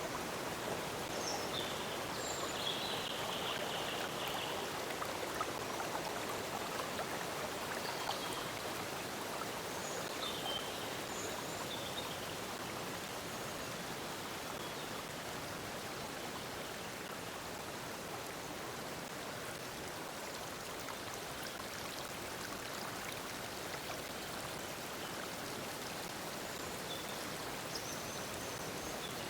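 A stream flowing steadily, a continuous rush of water. Faint short bird chirps come through now and then, mostly in the first few seconds and near the end.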